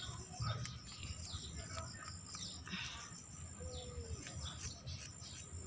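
Small birds chirping, a scatter of short, quick downward-sliding chirps, over a faint low rumble.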